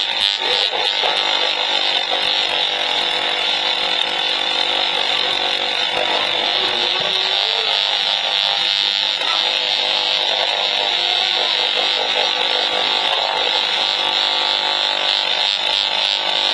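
Steady, loud buzzing and crackling from an RF meter's audio output as it picks up microwave leakage from a running microwave oven, with the oven's own hum beneath.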